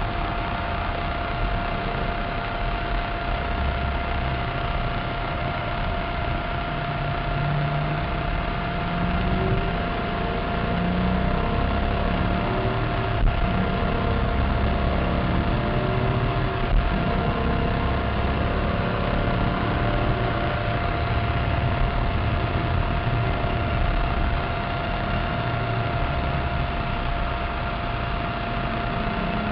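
Maserati Cambiocorsa's V8 engine and road noise heard inside the cabin at track speed, the engine note shifting with load. A steady thin whine runs over it, and two brief knocks come a little under halfway through.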